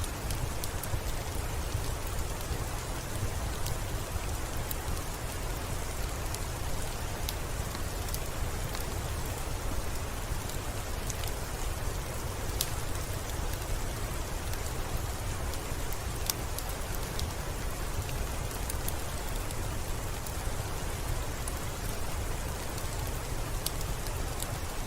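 Steady rain with a deep low rumble beneath, dotted with scattered small sharp clicks.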